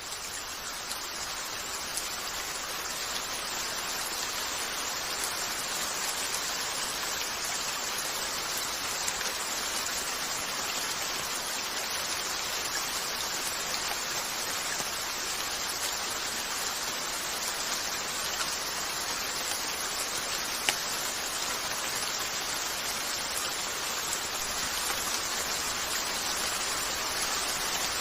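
Steady rain, an even hiss, with a few faint ticks and one sharp click about two-thirds of the way through.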